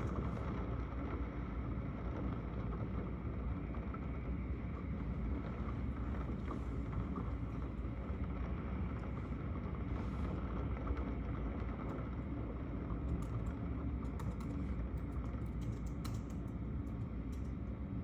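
Steady low rumble of rain, with scattered faint ticks that come more often in the second half.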